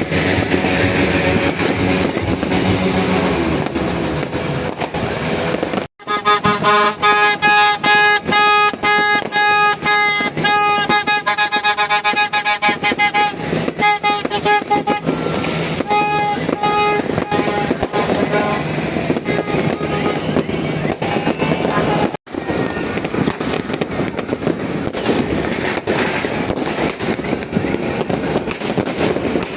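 A New Year's Eve din of music and horns tooting, with many sharp fireworks cracks. About six seconds in, after a brief dropout, a steady held horn-like tone with several overtones joins in and fades out by about fifteen seconds. The sound breaks off briefly again about twenty-two seconds in.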